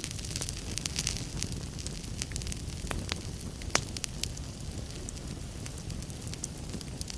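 Wood fire burning in a fireplace: a steady low rumble of flames with frequent sharp crackles and pops, one louder pop a little past halfway.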